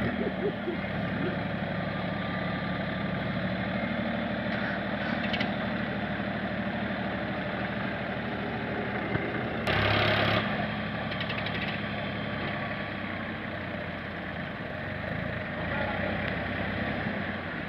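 Tractor diesel engine running steadily, with a short, louder rush of noise about ten seconds in.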